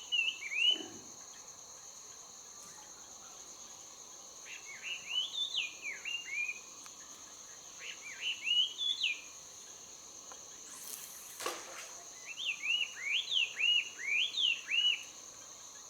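A songbird singing in four short bouts of quick, rising-and-falling chirps, over the steady high drone of insects. A brief rustling noise sounds about eleven seconds in.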